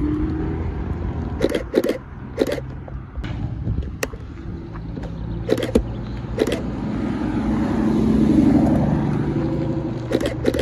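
Cars driving off along a lane: a BMW Alpina B4 Biturbo moving away, then an Aston Martin convertible's V12 swelling louder as it drives close past, loudest about eight seconds in. Several short sharp clacks, mostly in pairs, sound over the engines.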